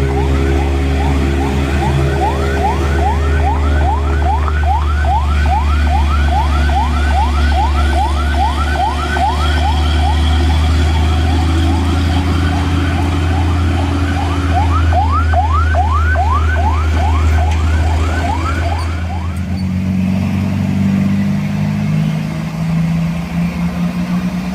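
Heavy truck diesel engine running under a loud electronic siren-like warning that repeats as quick rising whoops, a little over two a second. The whoops stop about nineteen seconds in and the engine note changes.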